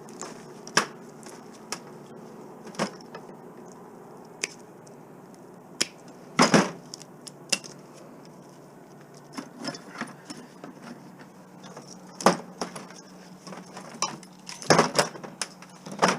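Hand snips cutting and pulling at scrap metal: scattered sharp metallic snaps and clinks, about a dozen spread irregularly, the loudest cluster about halfway through, over a steady low hum.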